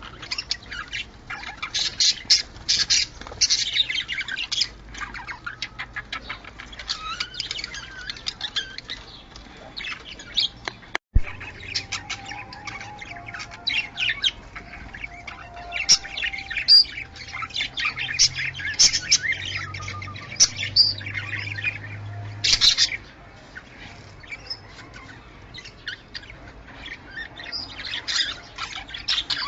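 Budgerigars chirping and chattering: a busy run of quick, high chirps, warbles and squawks, with a brief break and click about eleven seconds in.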